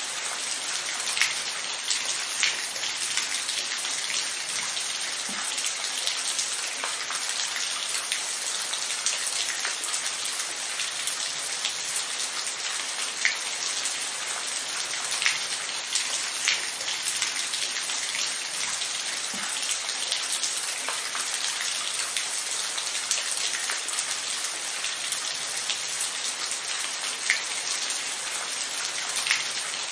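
Steady rain, an even hiss with scattered individual drops ticking sharply on a surface.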